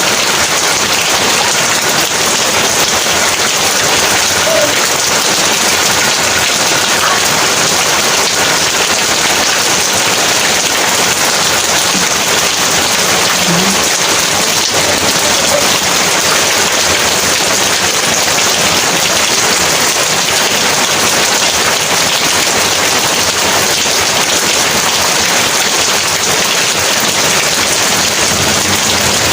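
Heavy rain falling steadily, a dense, even hiss of rain with no let-up.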